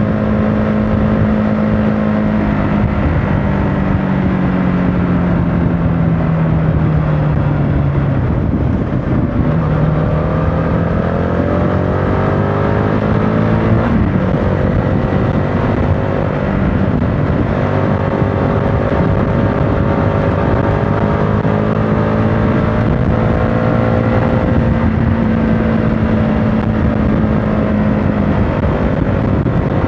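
A CFMOTO motorcycle engine running on the road, with wind and road noise. Its pitch holds steady, sinks for several seconds as the bike slows, then climbs again from about ten seconds in and settles into a steady drone.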